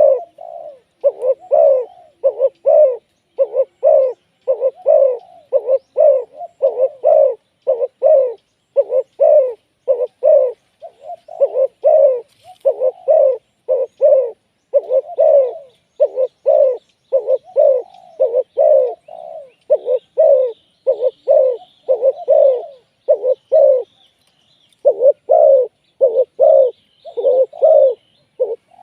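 Spotted doves cooing: a steady run of short, low coos repeated over and over, with a brief pause about 24 seconds in. Faint high chirps of small birds sound behind them in the second half.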